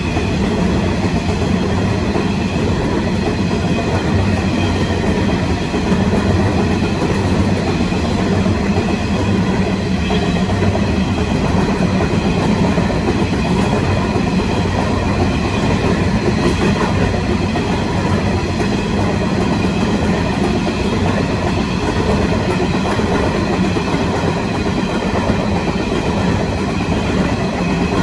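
Long freight train of steel coal hopper wagons rolling past at slow speed, a steady rumble of wheels on rail with some clickety-clack over the rail joints.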